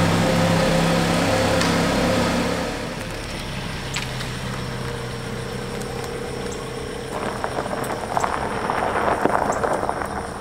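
Jeep Cherokee SUV engine idling steadily just after being started. About three seconds in it gives way to the quieter sound of the SUV driving off, with crackly tyre noise in the last few seconds.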